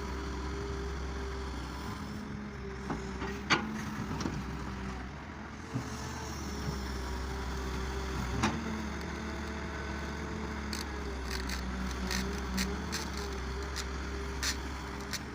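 Engine of a farm machine working a harvested rice field, running steadily with a hum that wavers slightly in pitch. Sharp clicks and knocks sound now and then, more often in the last few seconds.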